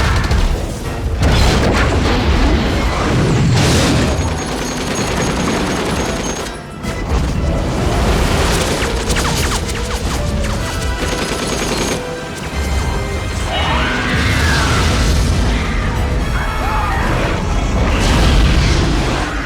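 Action-film soundtrack mix: dramatic music under repeated heavy booms and crashes, loud throughout.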